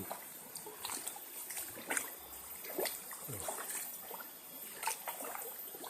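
Water trickling in a shallow stream, with scattered small sharp clicks and knocks at uneven intervals.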